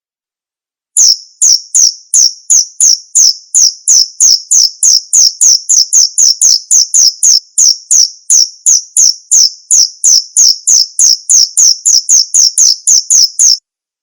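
Male cricket chirping: a fast, even train of short, high-pitched chirps, about three to four a second. It starts about a second in and stops suddenly near the end.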